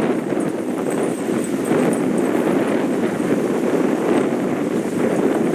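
Choppy waves washing steadily onto the shore, mixed with wind, a continuous rushing noise.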